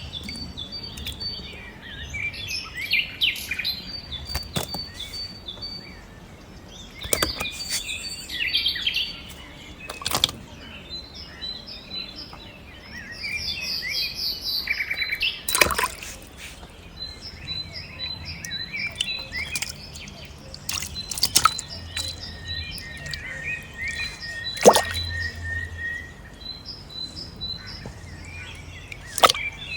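Birds chirping and calling with short repeated high notes and trills, broken by a few sharp clicks or knocks.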